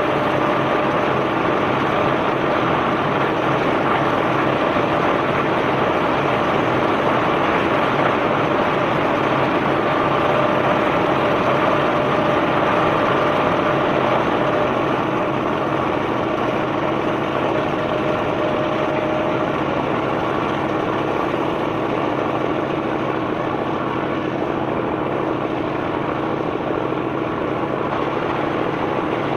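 Heavy machinery unloading a barge of limestone, running steadily under a continuous rush of noise. A faint steady whine stops about two-thirds of the way through.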